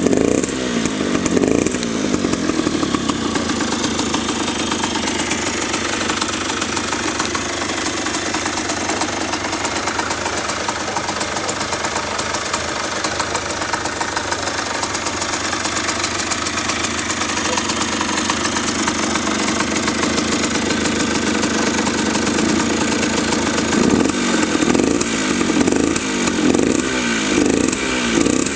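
Husqvarna WSM 50's 50cc two-stroke supermoto engine running. Throttle blips rev it up and down in the first couple of seconds, then it idles steadily, and repeated revs come back near the end.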